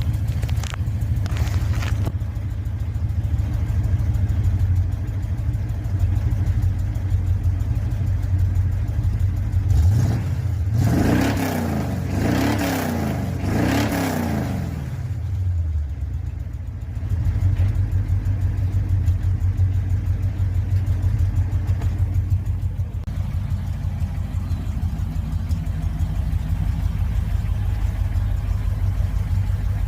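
Chevrolet 400 small-block V8 idling steadily. It is revved three times in quick succession about ten seconds in, then drops back to idle.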